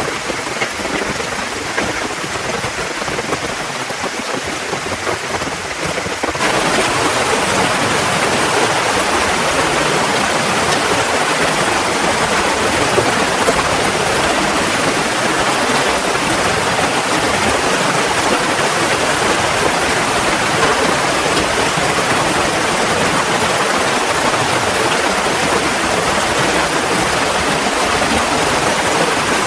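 Heavy rain falling steadily, which turns abruptly louder and denser about six seconds in and then holds steady.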